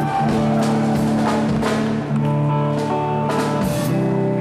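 Live band playing: sustained electric guitar chords that change about every two seconds, with drum-kit cymbal hits.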